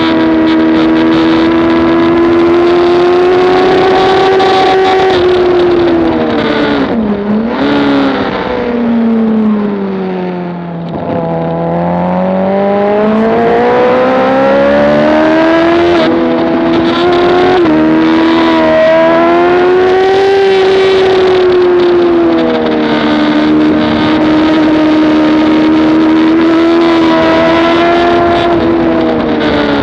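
Motorcycle engine heard from onboard while lapping a race track, its revs rising and falling continuously. The pitch dips briefly about seven seconds in, then falls to a low point around eleven seconds as the bike slows, and climbs back up. Wind noise runs underneath.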